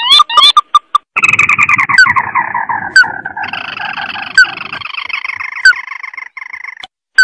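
Lure-call recording of a crake (burung tikusan mata merah): a few short rising notes, then a long rattling trill that falls steadily in pitch for about six seconds, joined midway by a second higher trill, with a sharp single call note about once a second.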